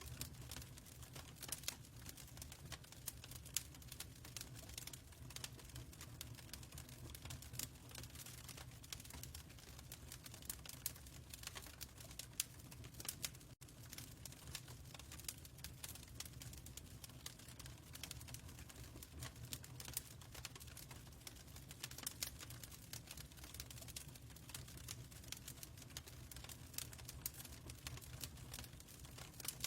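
Fireplace crackling: a dense, irregular run of small sharp pops and snaps over a steady low rumble, with a very brief dropout about halfway through.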